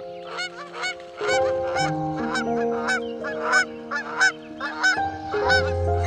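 Waterfowl honking in a rapid series of short calls, about two to three a second, over soft background music of held chords.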